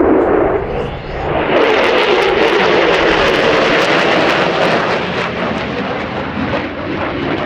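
Lockheed Martin F-35A Lightning II's Pratt & Whitney F135 jet engine roaring during a display pass. The roar dips briefly about a second in, then builds again with a ragged crackle.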